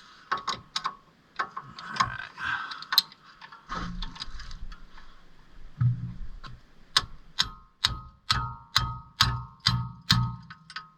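Metal clatter and scattered clicks, then from about seven seconds in a steady run of hammer taps on metal, about two a second, each ringing briefly.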